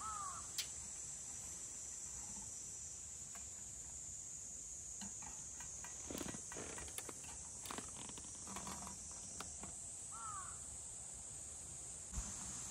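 Quiet outdoor ambience with a steady high hiss and two short bird calls, one at the start and one about ten seconds in. Scattered light clicks and knocks of camp gear being handled come mostly in the middle.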